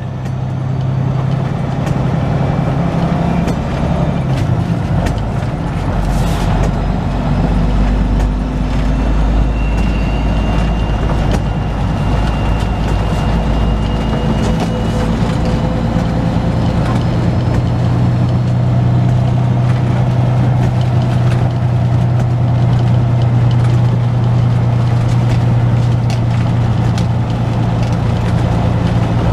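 Semi truck's diesel engine running as the truck drives slowly over rough, unpaved ground, with knocks and rattles from the bumps. The engine note drops lower about five seconds in and comes back up a little past halfway.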